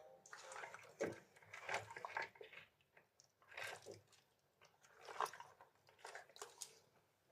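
Irregular bursts of wet squelching and clicking, typical of freshly caught cuttlefish being handled.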